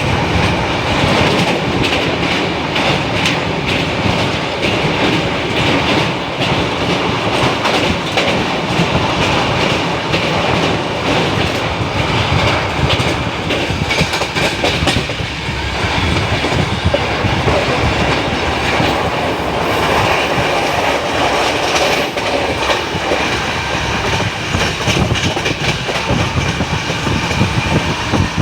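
Train running along the track: a steady rumble with the rapid clickety-clack and rattle of wheels on rails.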